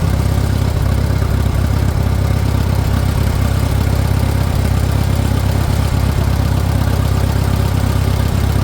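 Farmall 400 tractor's four-cylinder gasoline engine idling steadily on choke. It will not keep running off choke, which the owner suspects is an air leak, possibly a manifold gasket.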